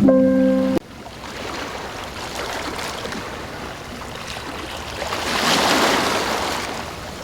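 Ocean waves washing in: a steady rush that swells into one louder surge about two-thirds of the way through, then eases off. A held synth-music chord cuts off under a second in.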